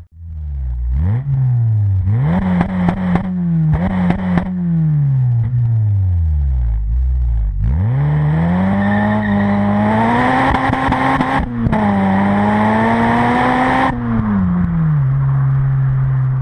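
Honda Civic Type R EP3's four-cylinder engine heard through a Fujitsubo RM-01A cat-back exhaust. It is revved in several quick blips that rise and fall in pitch, then dies down. It then climbs in a long pull held high for several seconds, with a brief break about 11 seconds in, and drops to a steady lower note near the end.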